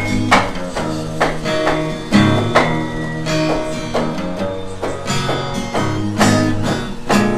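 Music: a guitar intro with plucked, strummed chords, before the singing comes in.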